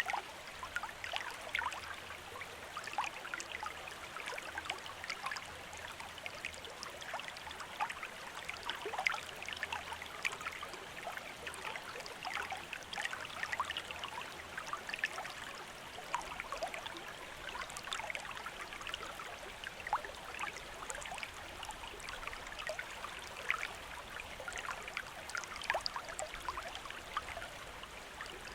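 Shallow stream running over stones, a steady trickling and babbling with many small splashes.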